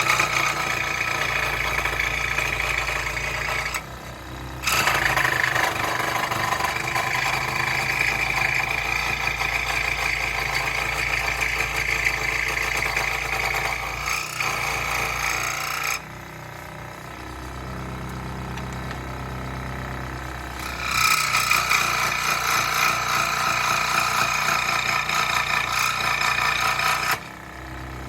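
Scroll saw cutting wood: a steady rasping of the blade through the board in three long stretches, dropping back twice to the low hum of the running saw when the blade is not in the cut.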